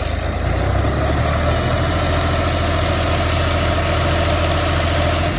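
Tractor diesel engine running loud and steady under load as the loaded trolley bogs down and gets stuck. The engine drops back suddenly near the end.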